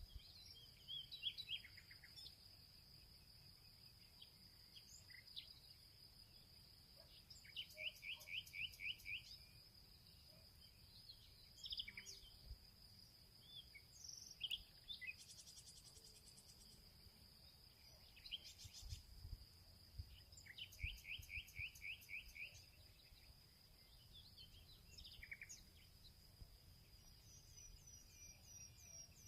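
Faint field ambience: several birds calling and singing in short chirps and whistles, with a rapid trill twice, over a steady high-pitched drone of insects.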